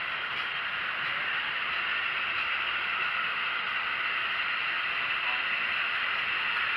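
Train running on rails: a steady rushing, rattling noise that grows slowly louder.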